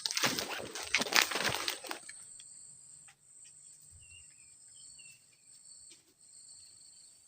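Loud rustling and crunching in forest undergrowth for about two seconds, then a steady high insect drone with a few short bird chirps about four to five seconds in.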